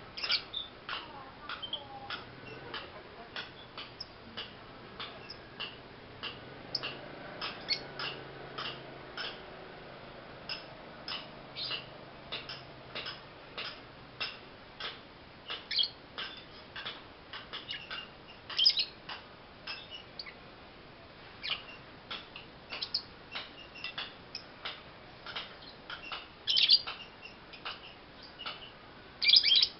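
Young lovebird chirping: a long run of short, sharp chirps at an uneven pace of one to three a second, with a few louder calls later on.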